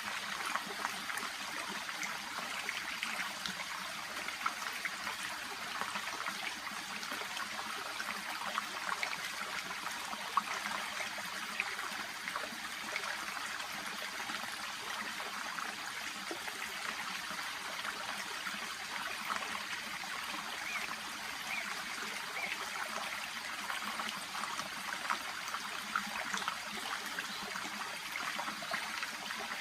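Small brook babbling steadily, a continuous trickle with many little splashes.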